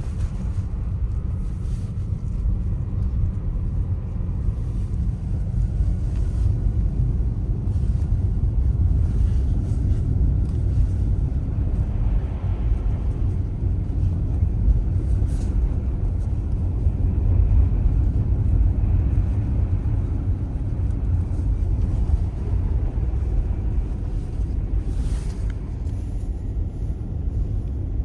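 Steady low rumble of tyre and road noise from an electric Tesla Model S driving on a snowy road, with no engine sound.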